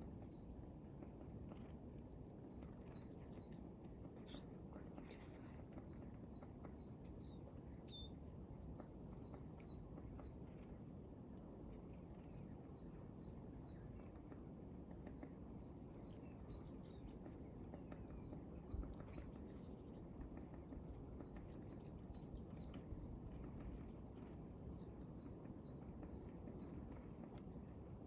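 Small bird singing: repeated short phrases of quick, high chirps, over a steady low background rumble. A single dull thump about two-thirds of the way through.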